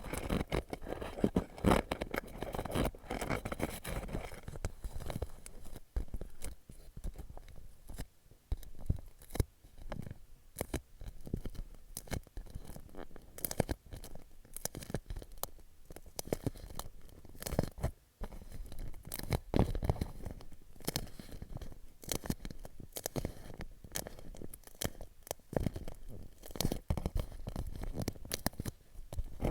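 Fingertips tapping and scratching on a clear plastic pouch: quick, irregular crackling taps, said to sound like popcorn popping.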